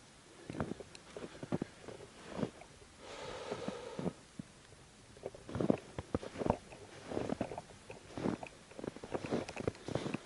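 Footsteps crunching in snow, one crunchy step after another at an uneven pace, with a brief steady rushing sound about three seconds in.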